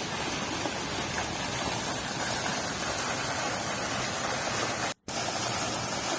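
Steady rush of running water, even and unbroken, cutting out completely for a split second about five seconds in.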